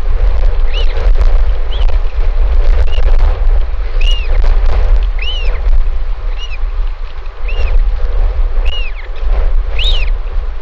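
Strong wind buffeting the microphone, a heavy low rumble throughout, with a bird's short high chirps repeating about once a second; the loudest chirp comes near the end.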